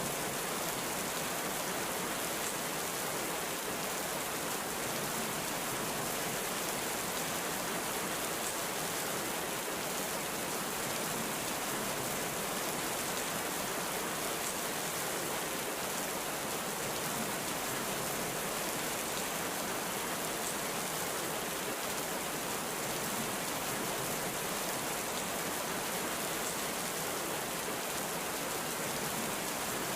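Heavy rain falling steadily: an even, unbroken hiss of rain with no thunder.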